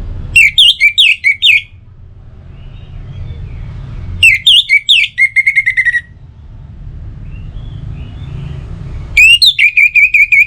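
Orange-headed thrush singing: three loud phrases of quick, high whistled notes, each a second and a half to two seconds long, with pauses of a couple of seconds between, over a steady low rumble.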